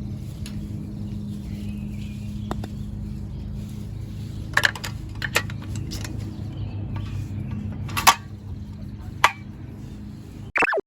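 A steady low hum with a few sharp clinks over it, about four in all, the loudest a little past the middle; the sound cuts off suddenly near the end.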